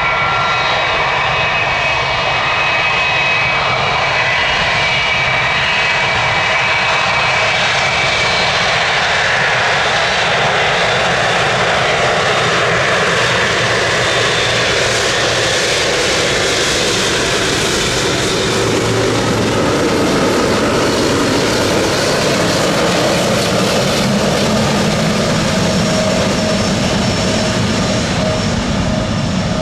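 Boeing 777F's twin GE90 turbofans running at taxi power close by: a loud, steady jet rush with high whining tones that fade out about halfway through, while the rush's pitch shifts as the aircraft moves past.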